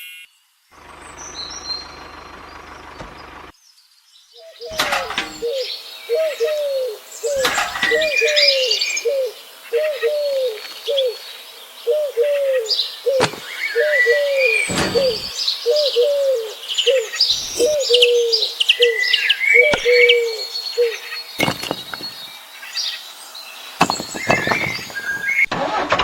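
Birdsong: a low call repeated over and over, with higher chirps and twitters above it, and a few short knocks in between.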